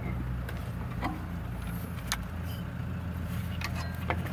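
A low, steady motor hum, like a vehicle running nearby, with a few light clicks as a distributor and its rubber seal are handled and fitted.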